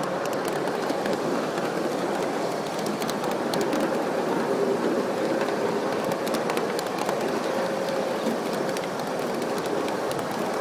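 Miniature ride-on train running steadily along its track, a continuous rumble of wheels on rails with scattered light clicks, heard from aboard.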